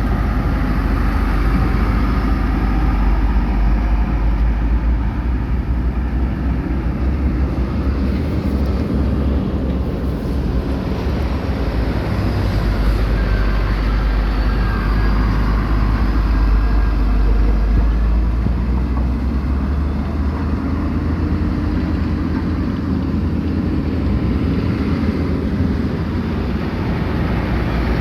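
Heavy diesel construction machinery running steadily, a deep engine rumble with no breaks.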